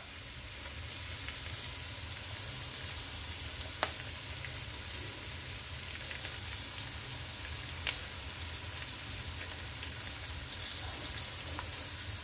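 Rice with peppers frying in red sauce in a non-stick pan, a steady sizzle, with a couple of light clicks about four and eight seconds in.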